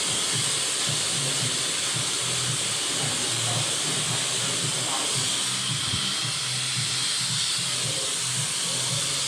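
Handheld hair dryer blowing steadily, a constant rushing hiss over a low motor hum, with rain falling on a metal roof behind it.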